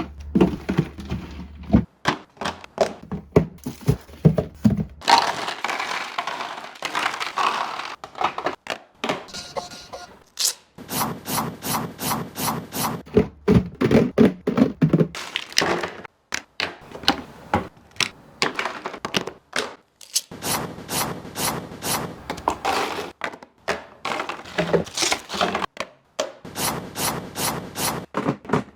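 A rapid, uneven run of knocks, taps and crackles from objects being handled, with stretches of crackling like packaging.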